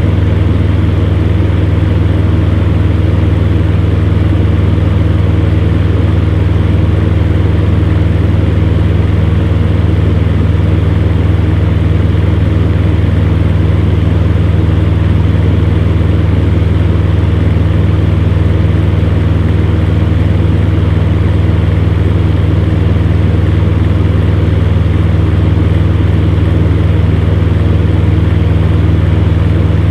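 Electric fan heater running steadily: a constant low hum under the rush of blown air.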